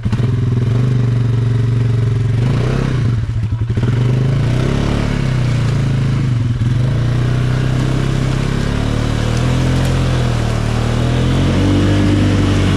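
ATV engine running and revving, its pitch rising and falling with the throttle.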